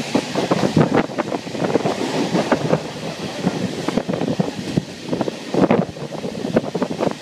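Electric multiple unit (EMU) commuter train running at speed, heard from on board: wind buffeting the microphone over an irregular clatter of wheels on the rails.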